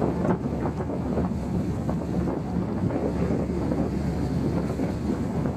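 Wind buffeting the microphone over a low, steady rumble and water noise from a large car ferry, the Ferry Kitakyushu, as it leaves port.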